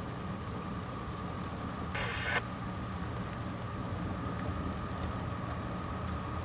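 A steady low engine rumble with a constant high thin tone over it, and a brief higher-pitched tone, about half a second long, about two seconds in.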